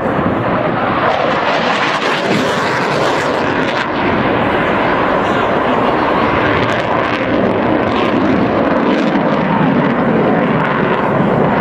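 Swept-wing jet aircraft flying its display, a loud, steady jet engine noise.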